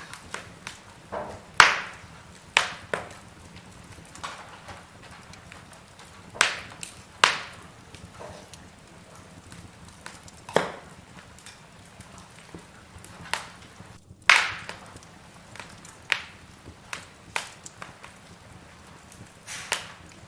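Logs burning in a fireplace, crackling with irregular sharp pops and snaps over a low steady hiss. The loudest snaps come about a second and a half in and again around fourteen seconds in.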